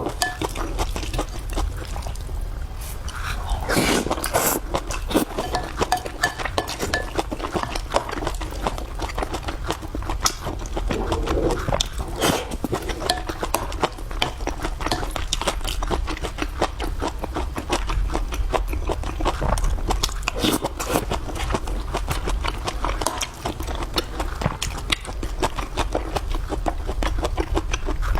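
Close-up eating sounds: a person chewing food, with many small sharp clicks and ticks throughout.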